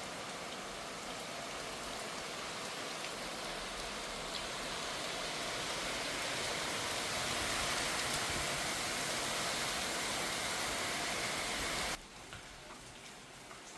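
Steady rain falling. About twelve seconds in it cuts to a quieter stretch of rain with scattered faint drips.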